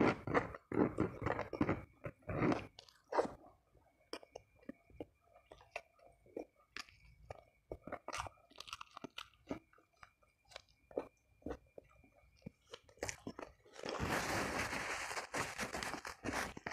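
Close-up chewing and crunching of food, a run of crisp bites and wet mouth clicks that thins out after the first few seconds. Near the end comes about two seconds of steady rustling as a tissue is rubbed across the mouth.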